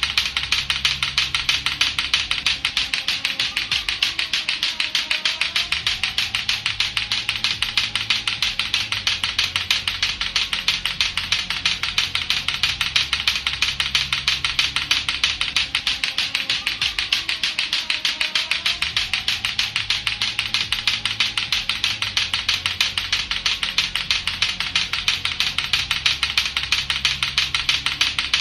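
Latto-latto clacker balls, two hard plastic balls on a string knocking together in a rapid, even clacking of several knocks a second.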